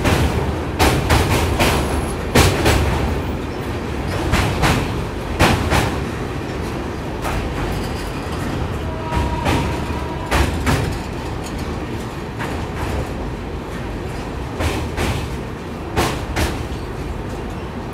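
Duronto Express passenger train running at speed: a steady low rumble with irregular sharp clacks of the wheels over rail joints, most frequent in the first few seconds.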